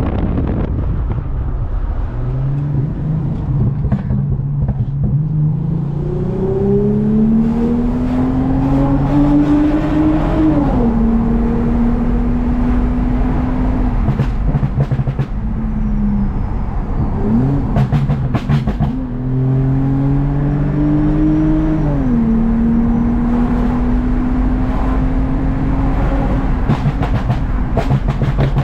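Toyota Mark X V6 with a modified exhaust accelerating. The engine note climbs through a gear, drops at the upshift and then holds steady at cruise. This happens twice.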